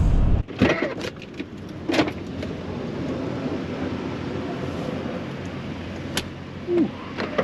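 Low road and engine rumble inside a moving vehicle cuts off abruptly, then scattered clicks and knocks over a steady low hum.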